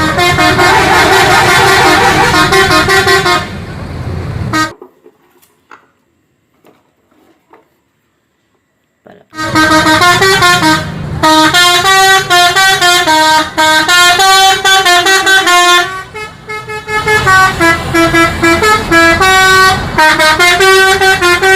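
Multi-tone bus horn (Indonesian "telolet" horn) playing a stepped, repeating melody of a few pitches. It stops for about four seconds early on, then starts again and plays on with short breaks.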